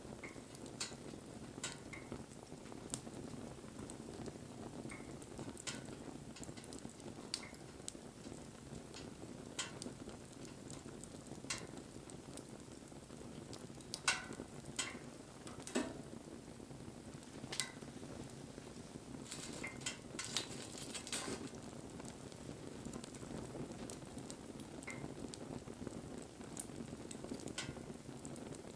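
Wood fire burning with a steady low rush of flame and irregular sharp crackles and pops, a few louder pops about halfway through and again about two-thirds of the way in.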